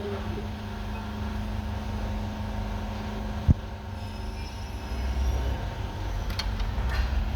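An engine running steadily, with one sharp knock about three and a half seconds in and the low rumble growing stronger in the last couple of seconds.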